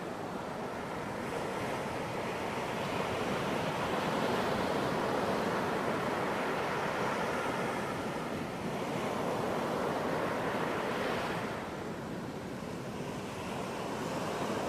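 Ocean surf breaking and washing onto a beach: a continuous rush that swells to its loudest about four seconds in, eases off around twelve seconds, and builds again near the end.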